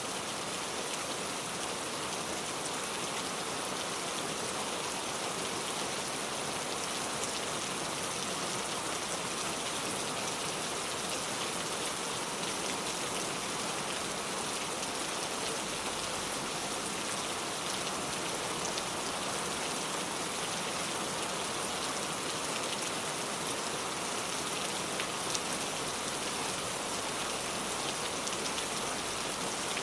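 Steady rain falling on a surface, an even hiss with a few sharper drop ticks scattered through it.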